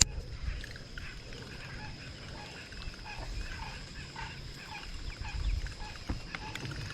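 A chorus of short, repeated animal calls, about two a second, over a faint steady high-pitched whine, with a sharp click at the very start.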